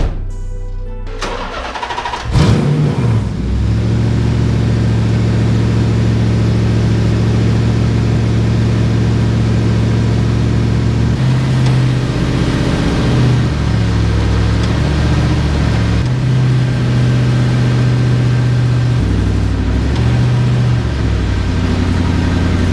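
Nissan VH45DE V8 engine in a 240SX started up: it catches about two seconds in with a short rev, then settles into a steady idle whose note changes several times in the second half.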